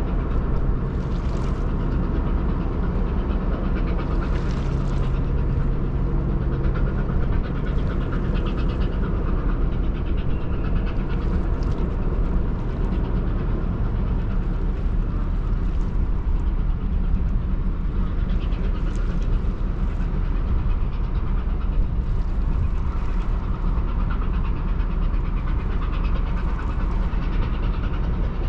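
Steady low rumble of a large ferry under way, from its engines and hull. A hiss swells and fades about every three to four seconds.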